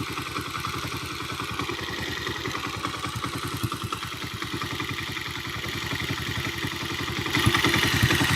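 Road Prince 125 motorcycle's single-cylinder four-stroke engine idling with an even beat, getting louder near the end. Its valve tappets have just been adjusted, and the knocking from the cylinder head is now much quieter.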